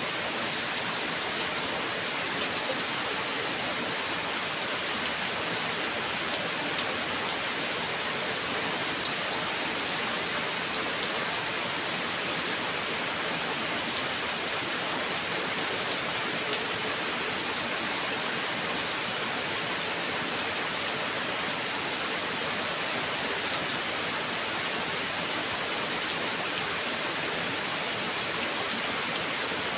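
Heavy rain falling steadily: an even hiss with faint scattered drop ticks throughout, and no thunder.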